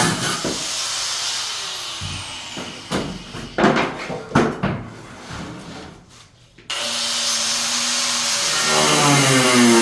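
Renovation work noise: a fading hiss followed by a few sharp knocks of hard tools striking. Background guitar music comes back about two-thirds of the way through.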